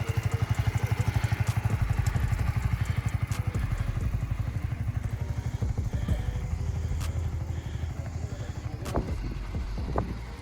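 Motorcycle engine running at low speed, its exhaust giving a fast, even pulse that is loudest at first and slowly fades as the bike moves away.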